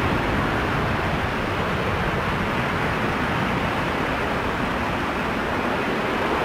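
Jet airliner engines at high power, a steady rushing noise with strong low rumble that holds level throughout.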